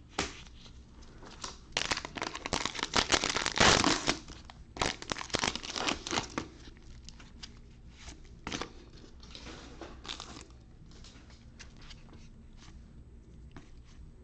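Plastic-wrapped trading card pack being torn open and crinkled, dense crackling for a few seconds that peaks around the middle, then scattered light crackles.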